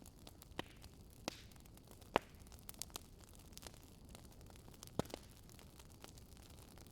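Fireplace fire crackling: irregular sharp pops and snaps over a faint low hiss, the loudest pop about two seconds in and another about five seconds in.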